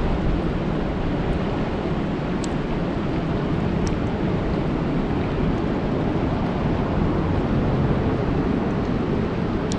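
Steady rain falling on a lake: a dense, even hiss of drops on water, with a few sharper single drop ticks.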